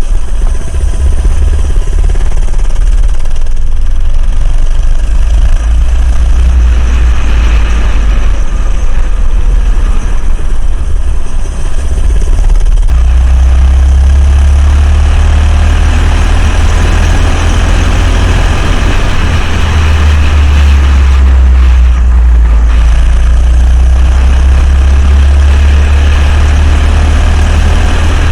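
Coleman CC100X minibike's small single-cylinder engine running under way, its pitch rising and falling with the throttle, under heavy low wind rumble on the microphone.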